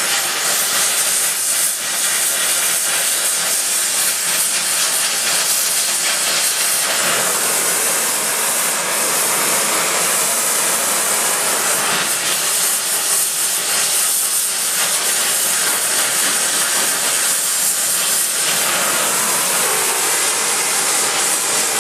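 Gas heating torch flame hissing steadily as it heats the steel rods for a tight braid.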